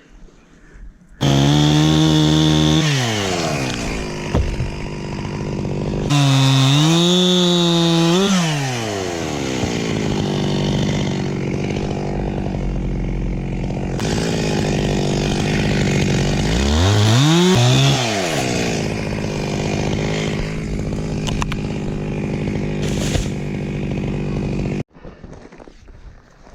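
Two-stroke chainsaw running at high revs while cutting tamarind wood. Its pitch dips and climbs again several times. It starts suddenly about a second in and cuts off abruptly near the end.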